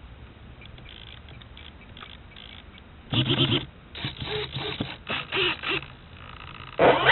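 Faint voices in short bursts over a quiet background. Near the end, aircraft engine noise cuts in suddenly and loud, its pitch wavering up and down.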